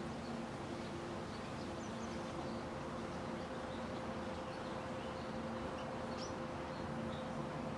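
Faint, scattered high bird chirps over a steady low hum and background noise.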